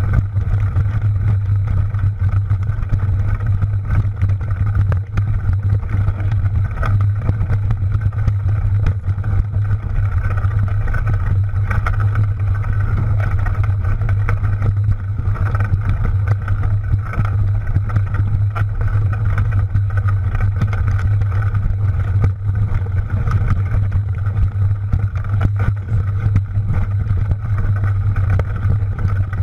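Steady wind rumble on the microphone while riding a mountain bike, with many small rattles and clicks from the bike going over rough trail.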